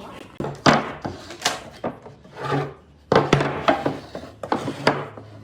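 Wood being rubbed or scraped by hand in a series of short, irregular strokes, with a couple of sharp knocks among them.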